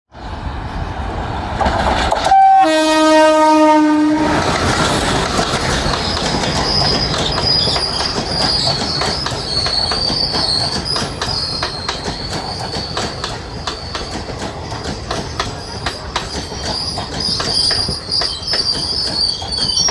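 Express passenger train passing. About two seconds in, the locomotive horn gives one blast of about two seconds, a brief higher note dropping to a lower one. The wheels then clatter over the rail joints, with a high, wavering wheel squeal from about six seconds on.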